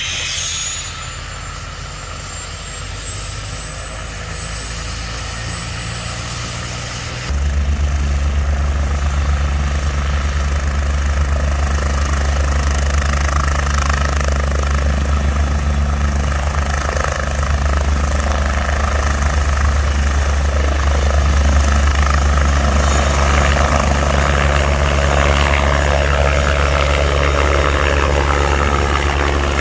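A large engine running, with a high thin whine that climbs slowly in pitch; about seven seconds in a deep steady hum comes in and the sound grows louder.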